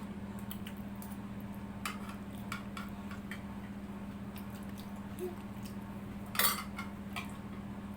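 Spoons clinking and scraping against bowls as pasta is eaten quickly. The clinks come in scattered taps, with a louder cluster about six and a half seconds in, over a steady low hum.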